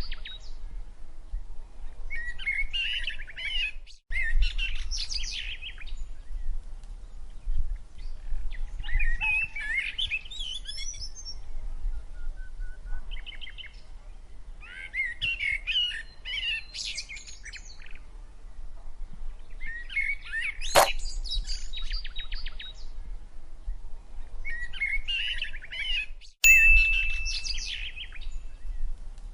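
Birds chirping and singing in short bursts of quick high notes every few seconds, over a low hum, with one sharp click about two-thirds of the way through.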